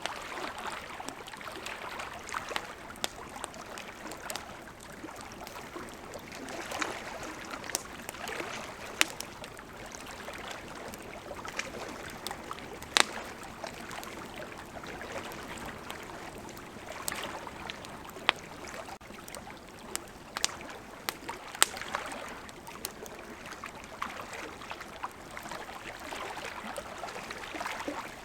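Wood campfire crackling, with sharp pops at irregular intervals, over a steady rush of flowing river water.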